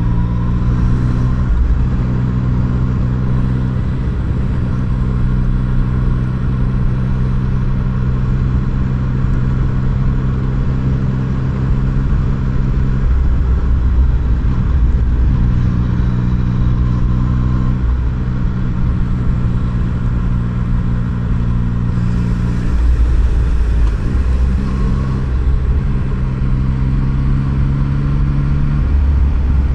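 Yamaha MT-09's inline-three engine running while riding, steady and loud, its pitch stepping up and down several times as the throttle and gears change.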